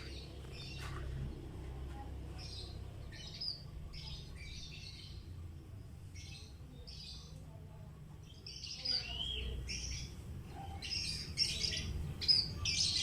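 Lovebird chirping in short high bursts, sparse at first and coming thicker and louder from about nine seconds in, over a low steady hum.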